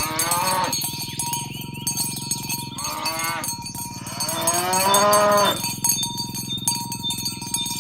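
Cattle mooing three times, the last call the longest, over a steady clatter of small clicks from the moving herd.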